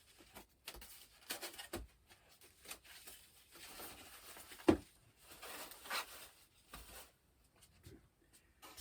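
Rustling and light clicks from handling packaging while a foam RC plane wing is lifted out of its box, with one sharper knock about halfway through.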